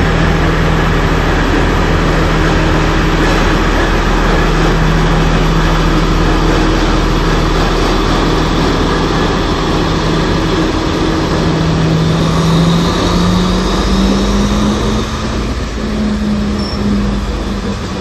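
Diesel multiple unit train rolling slowly past along the platform, its engine humming steadily, with wheel and rail noise. About two-thirds of the way through, the engine note rises as the train picks up speed.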